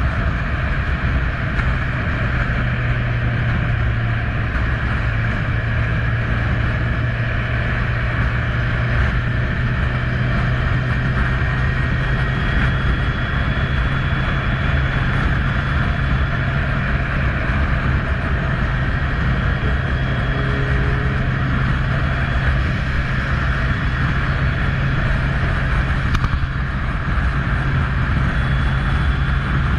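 Kawasaki Z1000 inline-four motorcycle engine running steadily at a constant speed.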